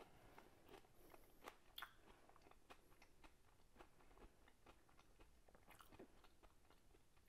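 Faint chewing of a mouthful of food: scattered soft clicks and mouth noises, very quiet, with a couple of slightly louder clicks about a second and a half in.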